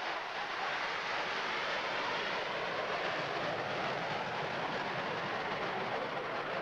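USAF Engine 4040, a rail locomotive, moving coal hopper cars along the track: a steady, unbroken running noise of the engine and wheels on rail.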